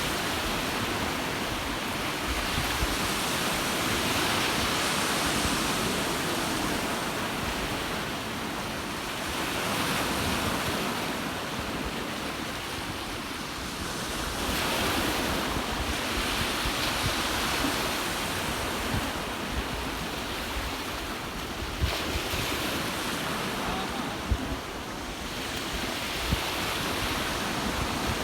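Ocean waves washing onto the shore, swelling and easing every five or six seconds, with wind rumbling on the microphone. A few short knocks in the second half.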